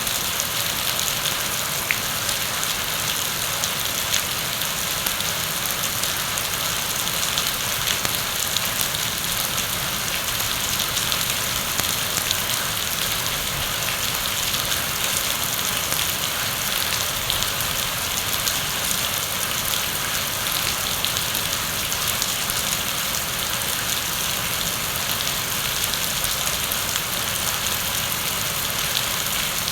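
Heavy rain falling steadily: a dense, even hiss flecked with the patter of countless drops striking a surface.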